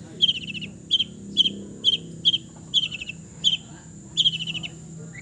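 Long-tailed shrike (cendet) singing: a run of short, harsh chattering notes, about two a second, the last one longer.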